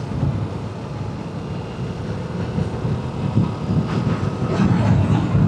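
Yamaha R7 motorcycle at road speed, heard from the rider's seat: a steady rumble of engine and wind noise that grows a little louder near the end.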